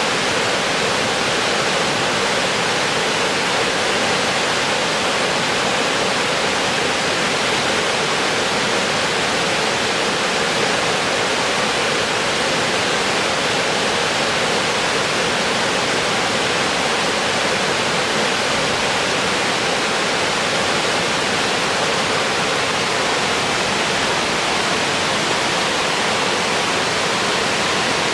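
Waterfall: water falling and splashing onto rock in a steady, loud rush that never changes.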